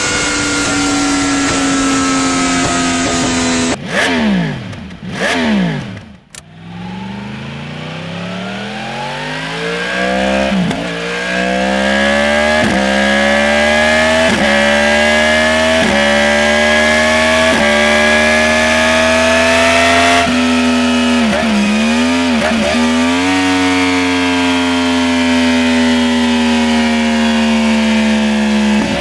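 Yamaha R1 inline-four sportbike engine through an aftermarket exhaust, ridden hard. It holds a high steady note, drops off sharply about four seconds in, then pulls up through the gears, the pitch climbing and falling back at each upshift. Two quick dips in pitch come about two-thirds of the way through before it settles into a steady high-rev note.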